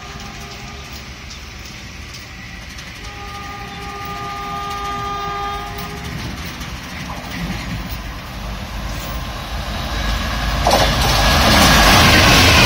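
WAP-4 electric locomotive sounding its horn in one long blast about three seconds in as the express approaches, its sound growing louder. From about ten and a half seconds in, the locomotive and coaches rush past at speed with a loud clatter of wheels on the rails.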